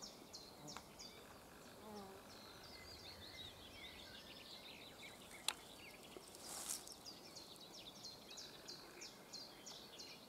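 Faint outdoor ambience with small birds calling: short high chirps repeated several times a second, thickest near the end, and a single sharp click about five and a half seconds in.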